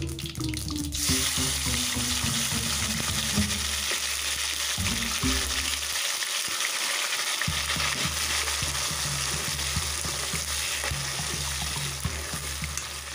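Chopped tomatoes hitting hot oil in a kadhai: a sizzle starts suddenly about a second in and carries on steadily. A spatula stirs through the tomatoes in the oil, adding small scraping clicks.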